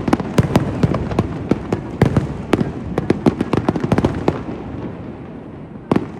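Fireworks going off: a rapid, irregular string of sharp bangs and cracks that thins out near the end, then picks up again with a few more.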